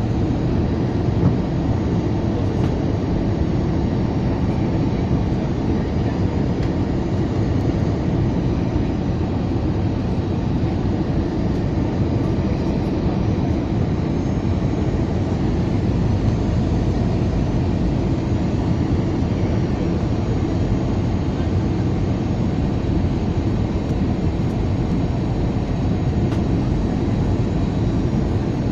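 Steady cabin noise inside an Airbus A320 on final approach: the engines and the rush of air, with the landing gear extended, as a constant deep rumble with a fainter hiss above it.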